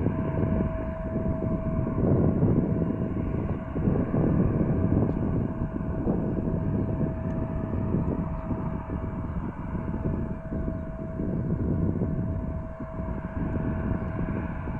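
Jet airliner's engines running, a steady loud rumble with a constant whine over it.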